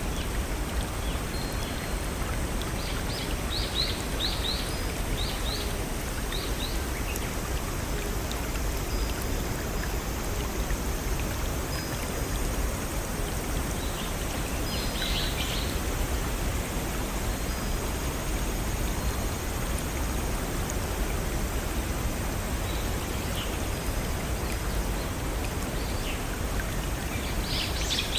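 Steady rushing of a small forest stream and waterfall, with short high bird chirps in a cluster a few seconds in, again around the middle, and more near the end.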